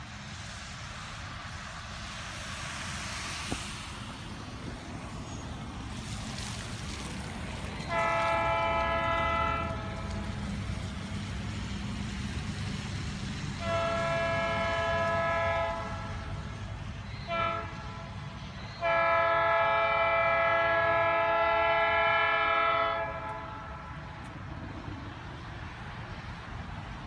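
Diesel locomotive air horn sounding the grade-crossing signal: long, long, short, long, with the last blast held about four seconds. The horn sounds a chord of several notes over the steady low rumble of the train.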